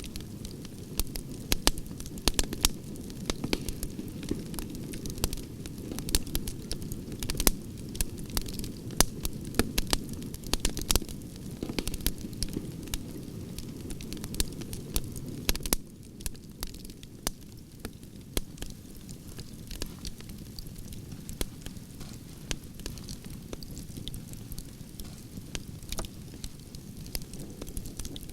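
Campfire of burning logs crackling and popping, with frequent sharp snaps over a steady low rumble of the flames. About halfway through the sound drops a little in level and the pops become sparser.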